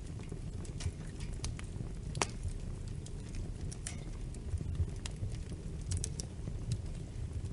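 Wood fire crackling in a fireplace: a steady low rumble of the flames with scattered sharp pops and snaps, one louder pop about two seconds in.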